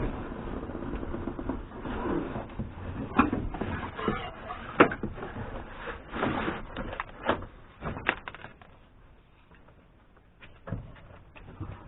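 Hand work on a car's interior headliner and trim: rustling, with irregular sharp clicks and knocks. It goes quiet for a couple of seconds about three-quarters through, then one more knock.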